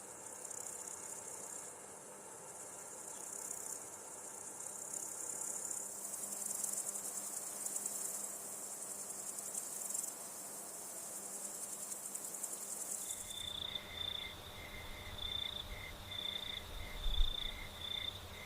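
Insects stridulating: a dense, high-pitched buzzing chorus that about thirteen seconds in switches to steady cricket-like chirps, a few a second, over a low rumble.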